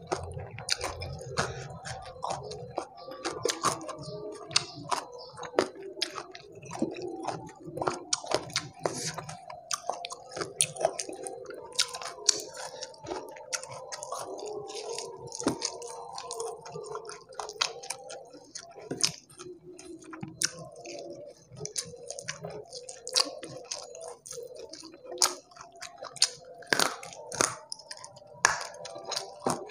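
Close-miked chewing and biting of fried chicken with rice and sambal, eaten by hand: crunches and many sharp wet mouth clicks throughout.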